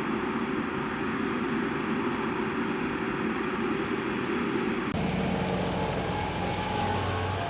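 Tractor engine running steadily under load while ploughing. About five seconds in, the sound changes abruptly to a lower steady hum with more hiss over it.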